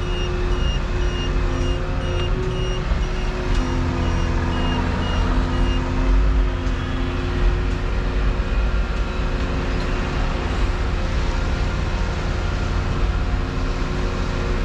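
Diesel engine of heavy construction machinery running steadily, with a warning alarm beeping about two to three times a second that stops about six seconds in.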